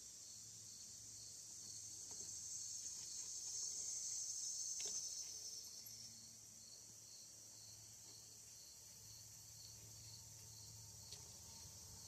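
Faint insect chirping, an even high pulsing that swells for a few seconds in the first half, with a few faint clicks.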